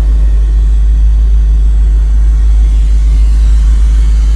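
1959 Cadillac's 390 cubic-inch overhead-valve V8 idling steadily, its sound low and deep.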